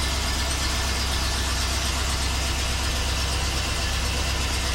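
1974 Ford Galaxie 500's 400 cubic-inch V8 idling steadily with a deep, even low rumble, still cold shortly after a first start following a winter's storage.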